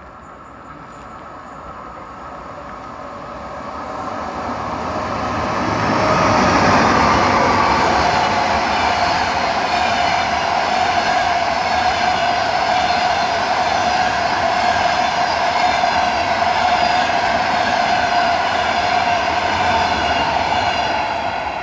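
A train approaching and passing, growing louder over the first six seconds and then running loud and steady, with a steady high whine over the rail noise.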